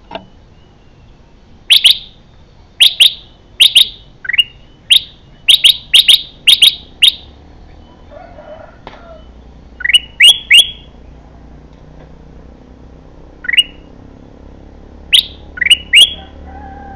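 Bulbul (kutilang) calling: loud, short, sharp chirps, first a quick run of about ten, then after a pause a burst of three, a single note, and another burst of three near the end.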